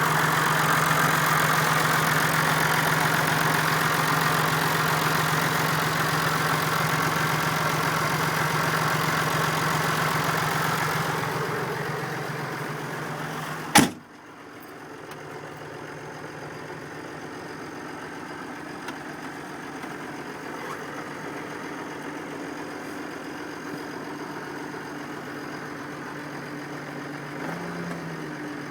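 Massey Ferguson MF 4220 tractor's diesel engine idling steadily. About halfway through comes a single sharp bang, after which the engine sounds quieter and more muffled.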